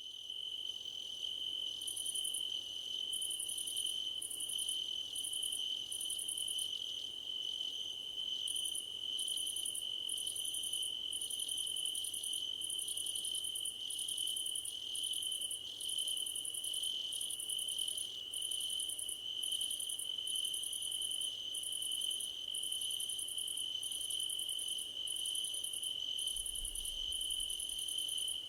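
Crickets singing in a grassy field: one steady, unbroken high trill, with a second, higher-pitched insect song coming in short bouts about once a second.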